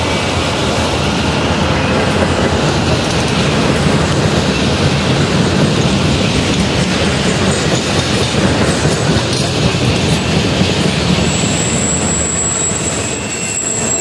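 Freight cars (boxcars, covered hoppers, a tank car) rolling past close by: a steady rumble and clatter of steel wheels on the rails. A thin, high wheel squeal joins in about eleven seconds in, with the cars rolling through a curve.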